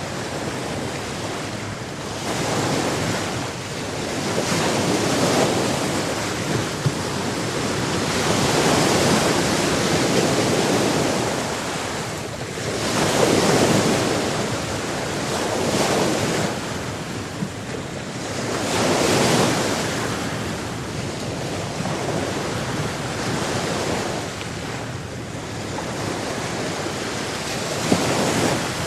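Sea surf: waves washing in one after another, a steady rush of water that swells and falls back every few seconds.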